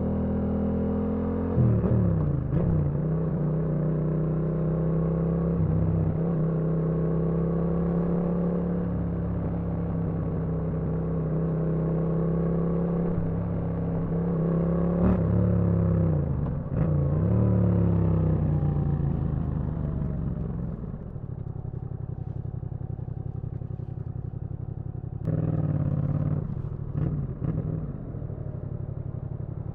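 Yamaha MT-07 parallel-twin engine running on the move, its note holding steady at cruising revs with a few shifts in pitch as the throttle and gears change. About two-thirds through the revs fall away to a lower, quieter note, then pick up again near the end.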